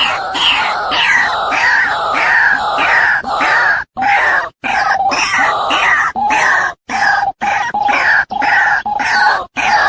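A bird calling harshly and repeatedly, several short downward-sliding calls a second. The sound cuts out abruptly a few times.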